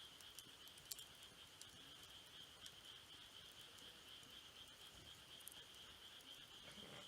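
Faint campfire with a few sharp crackles and pops, over a steady high-pitched trill of crickets.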